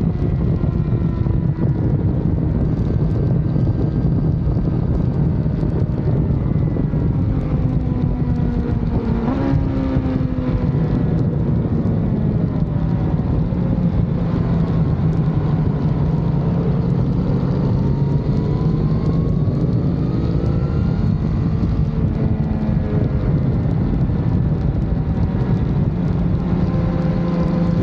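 BMW S1000RR inline-four sport bike engine running hard at track speed, its pitch rising and falling as the rider accelerates and slows, under heavy wind noise on the microphone.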